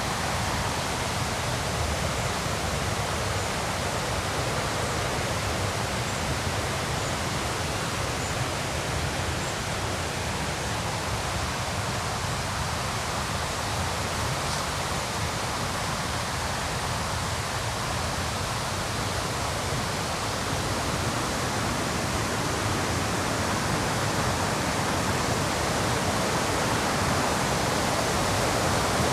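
River rapids rushing: a steady, dense roar of fast white water that grows a little louder near the end.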